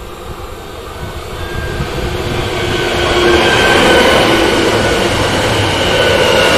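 ZSSK class 661 electric multiple unit running past close by, its wheels rumbling on the rails and a steady whine over it. The sound grows louder for the first three seconds as the train comes alongside, then holds.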